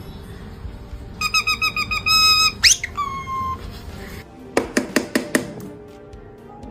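Parrot whistling: a rapid run of short beeping notes, then a quick upward-sweeping whistle and a held note, followed by a few sharp clicks.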